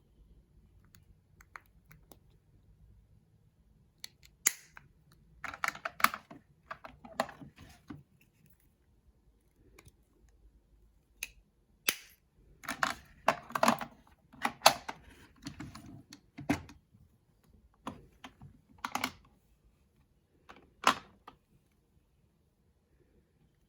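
Cosmetic cases and containers handled close to the microphone: irregular sharp plastic clicks and taps, coming in two busy clusters, then a few single clicks near the end.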